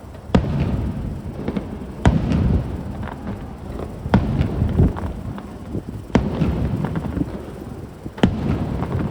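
Fireworks shells bursting overhead, about five sharp booms roughly two seconds apart, each followed by a rumbling echo and crackle.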